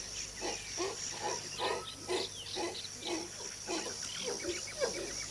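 Black-and-gold howler monkey (carayá) calling: a rapid, even series of short, low calls, about three a second, of the kind the troop uses to call its young or raise the alarm.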